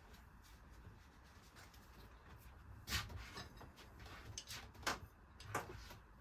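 A few light, separate knocks over a faint low hum, about three seconds in and again a second or two later.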